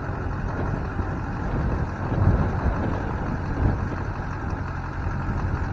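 Duramax LB7 6.6-litre turbo-diesel V8 idling steadily, with two brief louder swells a couple of seconds in and again about a second later.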